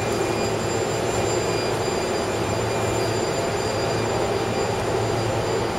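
Keio 7000-series electric train standing at the platform, its onboard equipment giving a steady hum and rushing noise.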